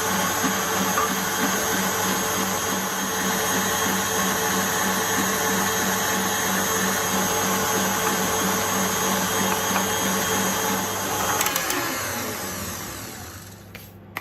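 Electric stand mixer running steadily as it whips cream and sugar, its motor giving a constant whirring hum. About eleven seconds in it is switched off and winds down, followed by a couple of small clicks.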